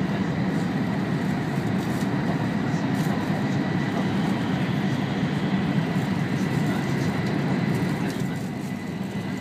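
Cabin noise inside an E5 series Shinkansen car running on the line: a steady low rumble with a faint thin high whine above it, easing slightly near the end.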